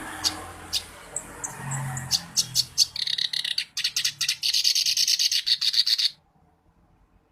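Kerak basi (clamorous reed warbler) singing. The song opens with a few sharp, separate high notes, breaks into a fast, continuous chattering run about three seconds in, and stops suddenly about six seconds in.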